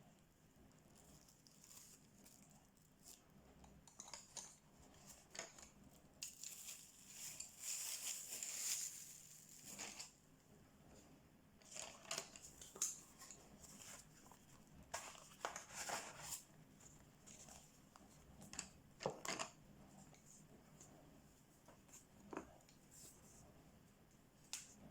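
Faint scratchy strokes of a coloring tool on a paper coloring book, in irregular runs with scattered light clicks and taps.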